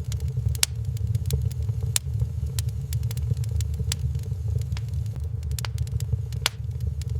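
Wood fire in a fireplace, crackling with sharp, irregular pops about once a second over a steady low rumble.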